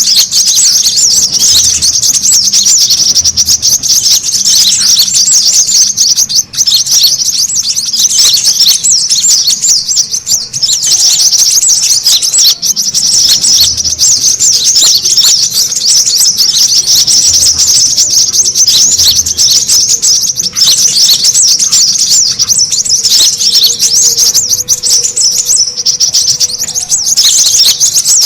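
Busy, unbroken chorus of brown-throated sunbirds (kolibri kelapa): fast, high, overlapping chirps and twitters with no pauses, a lure recording of excited, noisy birds used to call sunbirds in.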